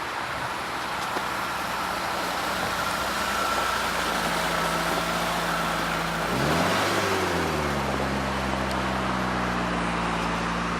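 TagAZ Aquila's 1.6-litre four-cylinder engine idling over a steady hiss, blipped once about six seconds in, the pitch rising and falling back to a steady idle.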